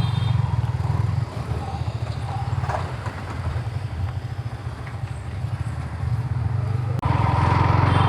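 Yamaha MT-15's single-cylinder engine running at low road speed, a low pulsing beat that swells in the first second and again about seven seconds in as the throttle opens.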